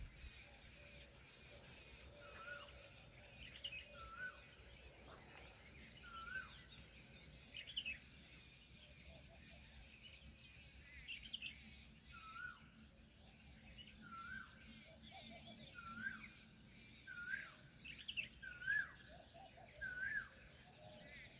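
Faint small-bird chirping: a short, hooked, high note repeated every second or two, with a few other higher chirps now and then.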